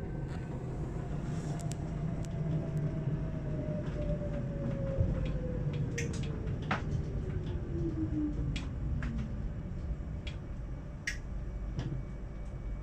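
Running noise heard inside an electric commuter train carriage: a steady low rumble with scattered sharp clicks from the wheels on the track. A motor whine falls steadily in pitch over about nine seconds as the train slows down.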